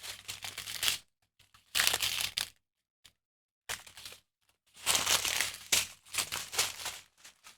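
Small plastic packets of diamond painting drills crinkling and rustling as they are handled, in several irregular bursts with a short silent pause about three seconds in.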